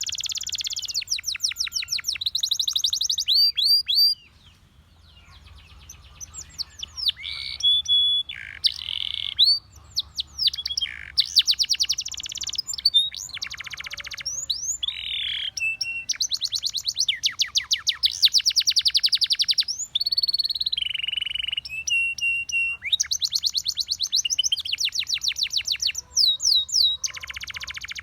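Russian singing canary singing a long song of rapid trills, fast rolls of repeated notes broken by sweeping whistled glides and short buzzy phrases. The song pauses briefly about four seconds in, then runs on phrase after phrase.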